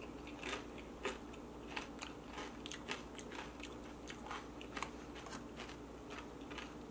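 A person chewing a tortilla chip with guacamole: short crunches and mouth crackles, about two a second.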